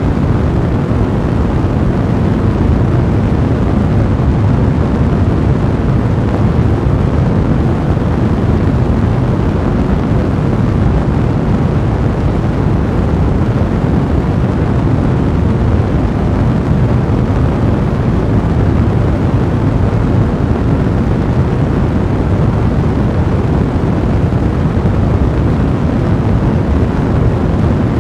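Fire burning in a fireplace: a steady, deep rushing noise with no separate crackles standing out.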